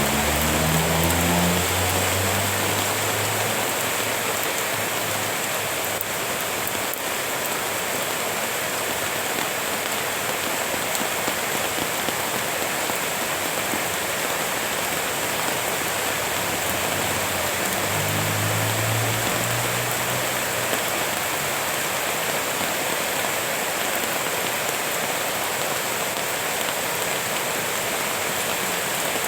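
Steady rain falling as an even hiss. A low droning hum comes in briefly at the start and again about two-thirds of the way through.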